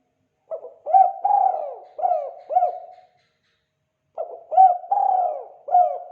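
A spotted dove (tekukur) gives its cooing song of the type keepers call 'kuk 2'. There are two phrases of about five coos each: one starts about half a second in, and the second follows after a gap of about a second.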